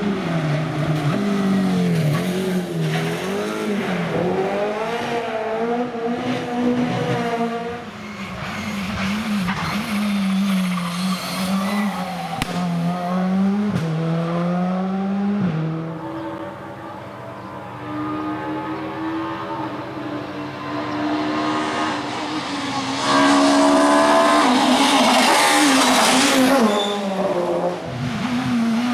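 Rally car engines at full attack, revving up and down with sharp breaks at the gear changes, with tyres squealing. The sound dips briefly past the middle, and the loudest pass comes near the end.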